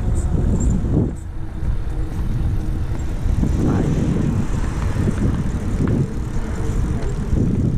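Wind buffeting the microphone of a camera carried on a moving bicycle, a steady low rumble mixed with tire and road noise, dipping briefly about a second in.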